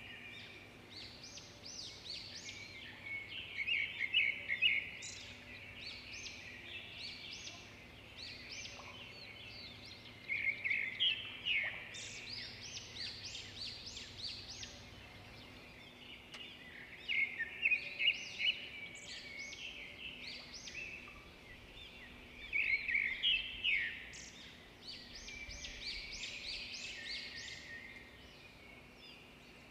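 Birds chirping in bursts of rapid, high chirps that come back every five or six seconds, over a faint steady hum.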